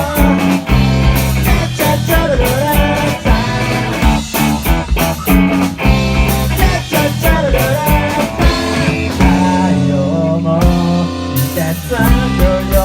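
Rock band playing live: electric guitar, bass and a drum kit, with a pitched lead line wavering and bending over a steady beat.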